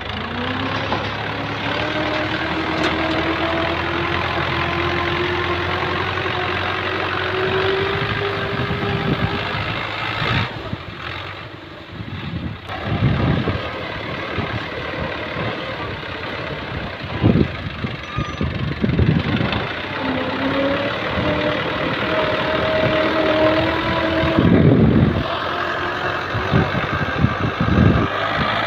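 Tractor diesel engine running as it works a front blade, its pitch climbing steadily over the first nine seconds, dropping, then rising again later. Several short thumps come in the second half.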